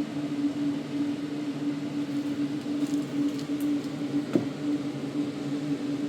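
A steady machine hum with one sharp knock about four seconds in.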